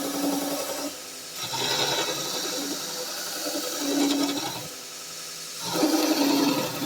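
Vevor 1x36 benchtop belt sander running with a workpiece being ground on the belt; the grinding swells and fades several times, dropping back twice, about one and five seconds in, before getting loudest near the end.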